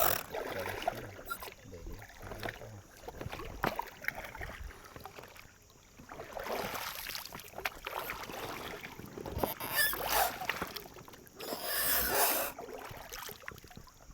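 River water splashing and sloshing in irregular bursts, with a few louder surges near the middle and toward the end.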